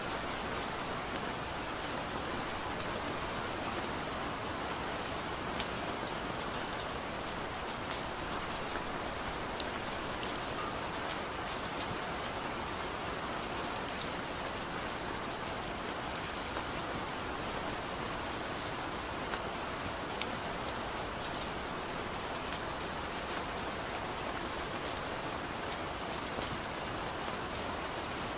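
Steady rain falling: an even hiss, with scattered sharp ticks of single drops.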